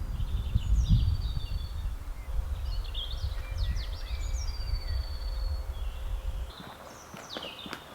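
Several songbirds singing in woodland: short whistled phrases and quick downward-sweeping notes. Under them is a loud, uneven low rumble that stops abruptly about six and a half seconds in.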